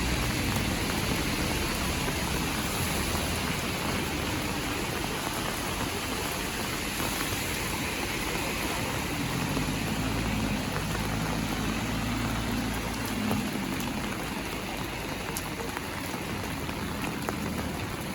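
Heavy rain falling, a steady dense hiss with a low rumble underneath that eases off in the last few seconds.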